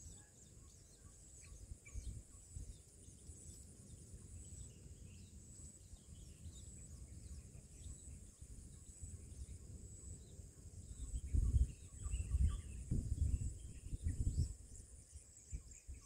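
Faint, short high chirps from begging shrike nestlings. Under them run a steady high-pitched whine with a faint regular pulse and a low rumbling noise, which swells for a few seconds in the latter part and is the loudest thing heard.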